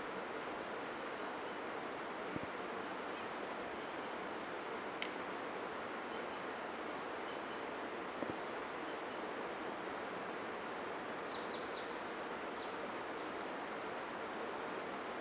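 Forest ambience: a steady, even hiss, with faint, short, high bird chirps in twos and threes about every second, and a few soft clicks.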